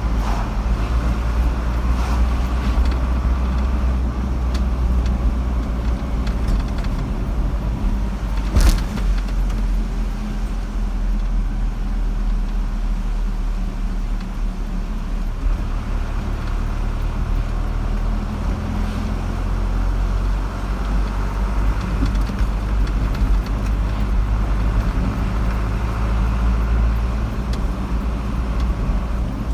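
A car driving steadily along a road: engine hum and tyre rumble, with one sharp click about nine seconds in.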